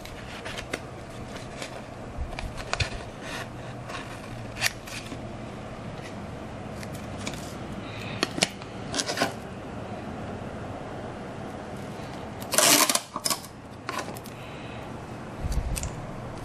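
Scissors snipping through craft material in short, separate cuts, with a longer, louder rustle of handling about three-quarters of the way through.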